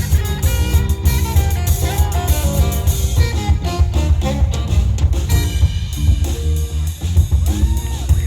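Live funk band playing, with drum kit, electric bass and electric guitar driving a steady groove under a melodic lead line.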